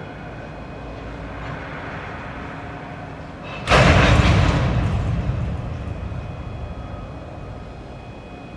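Train noise: a steady rumble, then a sudden loud rush of noise about three and a half seconds in that fades away over the next few seconds.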